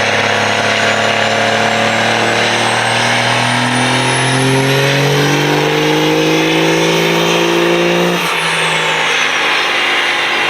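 Diesel pickup truck making a full-throttle pull on a chassis dyno. The engine climbs steadily in pitch for about eight seconds with a high turbo whine rising alongside, then the throttle is let off and the whine falls away as it winds down.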